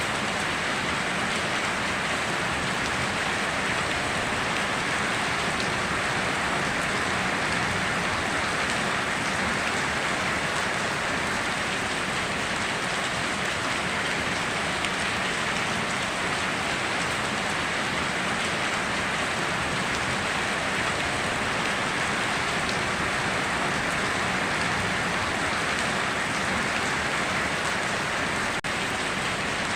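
Steady heavy rain falling and pattering on surfaces, an even hiss with no breaks.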